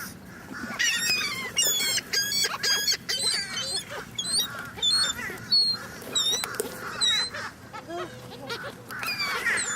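A flock of birds calling over one another while being fed bread: many short, high-pitched squawks in quick succession, with no letup.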